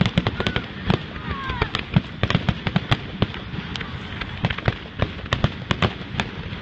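Aerial fireworks going off: a rapid, irregular string of bangs and crackling pops, several a second.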